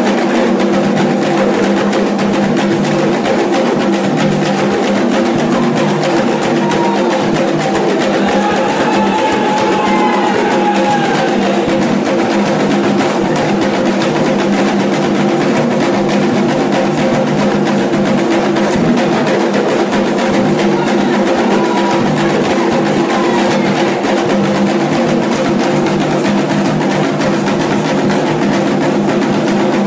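Candomblé ritual drumming: hand drums played in a fast, steady rhythm without a break.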